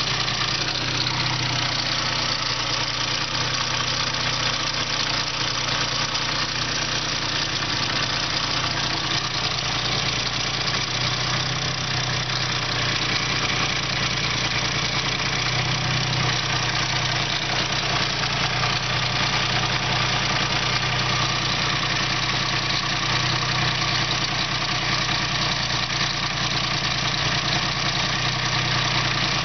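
2003 Ford Explorer engine idling steadily during a running test, which the seller reports it passed.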